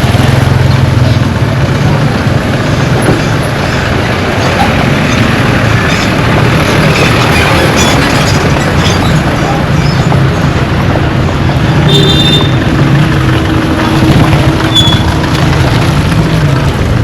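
A vehicle engine runs steadily with a low, wavering hum, under heavy wind and road noise on the microphone. A short high-pitched squeak comes about twelve seconds in.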